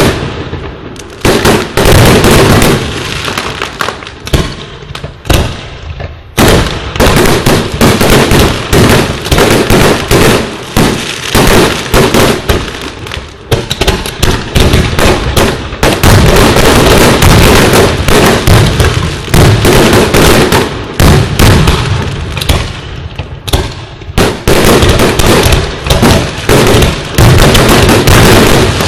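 Fireworks display going off close by: a dense, continuous barrage of loud bangs and crackles, thinner for the first few seconds and then almost unbroken.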